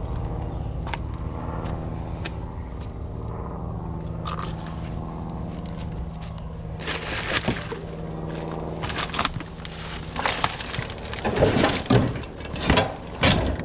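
A vehicle engine running with a steady low hum. From about eleven seconds in comes a run of clattering knocks and scrapes, like scrap metal being handled and tossed.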